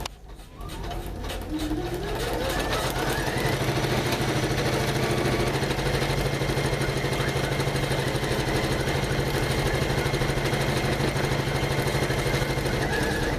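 Janome MC500E computerized embroidery machine starting up with a rising whine, then running steadily at stitching speed with rapid, regular needle strokes.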